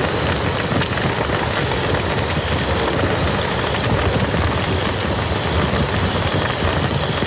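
A steady rush of flowing river water with a campfire crackling in it.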